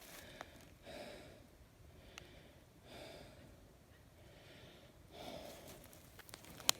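Faint, slow breaths from a person, about one every two seconds, with a single sharp click near the end.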